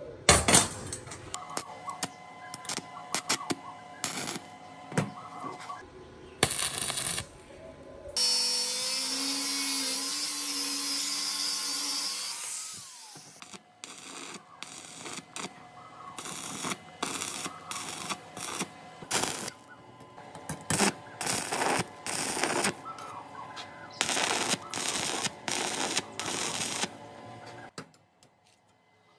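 Workshop sounds of a machine being worked on: a run of sharp knocks and clicks of tools on metal, broken in the middle by a power tool or motor that runs steadily for about four seconds and then winds down.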